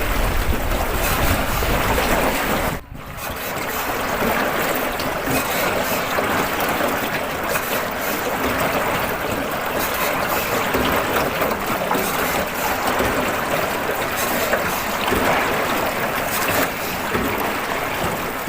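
Wind buffeting the microphone during a small-boat river ride, heavy for the first three seconds. It cuts out suddenly, then gives way to a steady hiss of moving water and open-air ambience.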